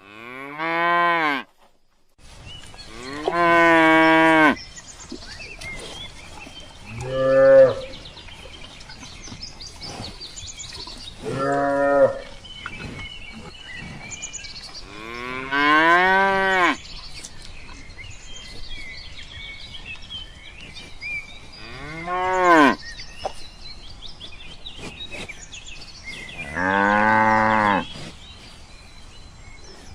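Cattle mooing: about seven separate moos, each a second or two long, coming every few seconds, some rising then falling in pitch.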